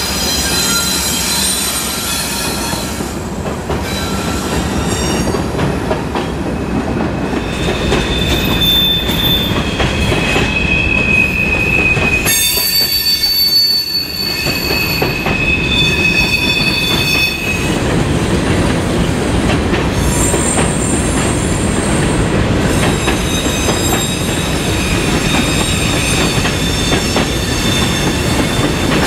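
Freight train of tank cars rolling past close by, the wheels rumbling and clattering on the rails. Long stretches of high-pitched wheel squeal sound from about a quarter of the way in and again later.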